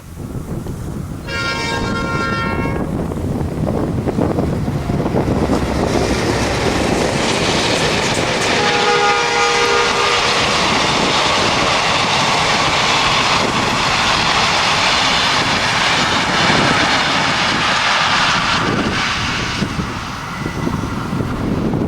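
Diesel locomotives X31 and B74 sounding a multi-tone horn twice, the second blast a little longer and lower in pitch, then the train passing close by with engine rumble and wheels clattering over the rail joints, easing off near the end.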